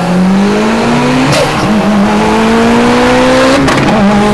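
IS38-turbocharged VW GTI's 2.0-litre turbo four-cylinder at full throttle, heard from inside the cabin, its pitch climbing steadily with two quick upshifts about a second and a half and nearly four seconds in.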